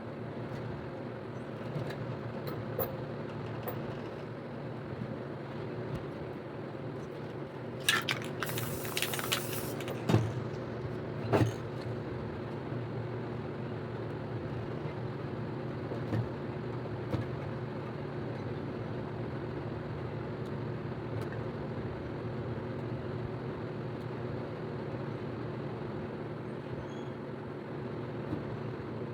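Steady low hum, with a short hiss from a spray paint can about eight seconds in, lasting about a second and a half, followed by two knocks a little over a second apart.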